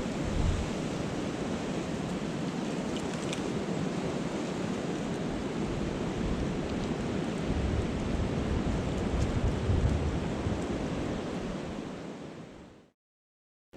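Steady rushing wind of a snowstorm, with low gusts buffeting the microphone. It fades out near the end.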